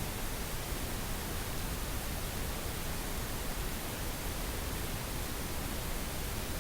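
Synthetic pink noise: a steady, even hiss spread across the whole range from low to high.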